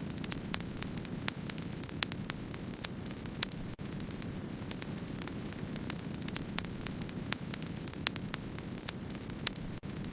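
Wood fire burning, with frequent sharp, irregular crackles and pops over a steady low rumble. The sound briefly cuts out twice, about four seconds in and near the end.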